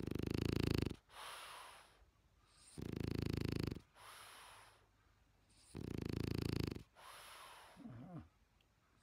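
A sleeping French bulldog, a flat-nosed breed, snoring loudly. It gives three loud, rasping in-breaths about three seconds apart, with quieter breathy out-breaths between them.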